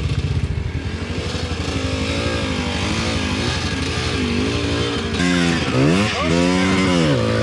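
Dirt bike engines running: one idles steadily while another is revved up and down, with the strongest rev-and-drop about five seconds in.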